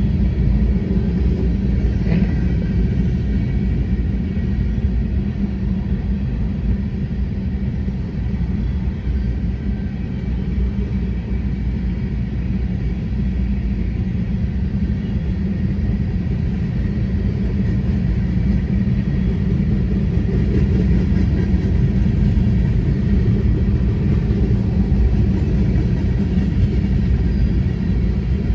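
Empty grain train rolling past, a steady, loud low rumble of freight car wheels on the rails.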